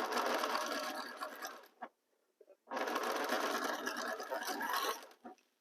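Domestic sewing machine stitching in two runs of about two seconds each, stopping briefly in between, sewing diagonal seams across quilt squares.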